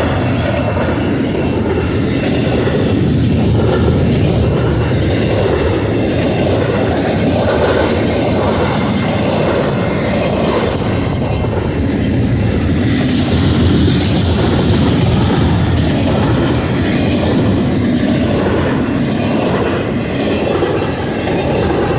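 Union Pacific intermodal freight train rolling past at track side, a steady rumble and clatter of steel wheels on rail, with a brief higher-pitched hiss from the wheels about two-thirds of the way through.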